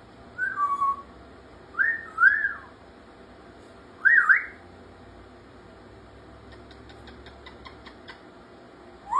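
African grey parrot whistling in short phrases: a falling whistle, then a pair of rising-and-falling whistles, a quick rise-and-fall about four seconds in, and another rise-and-fall near the end. A run of faint rapid ticks comes between the last two phrases.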